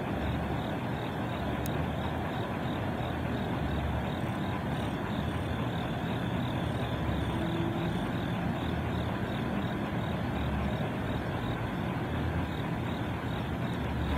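Steady low rumble of an approaching diesel freight train's locomotives, heard from a distance, with a faint, fast, even high chirping throughout.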